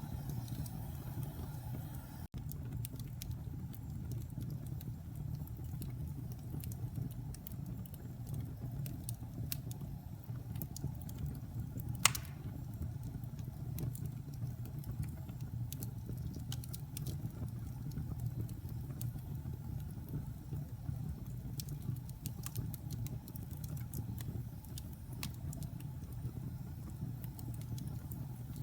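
Fire burning in a fireplace: a steady low rumble of flames with scattered small crackles and one louder pop about twelve seconds in.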